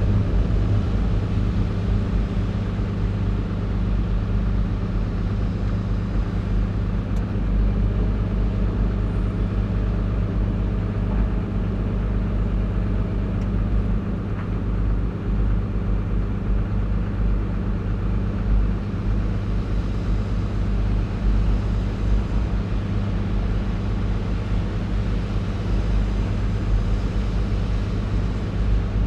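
Caterpillar 349E hydraulic excavator's diesel engine running steadily, a constant low hum, with a faint high tone for a few seconds in the middle.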